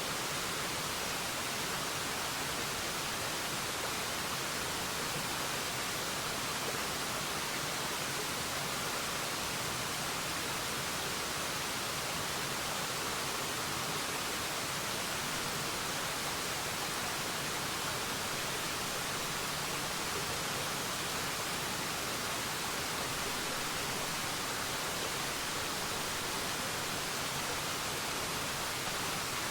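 Waterfall: falling water making a steady, unchanging rushing hiss.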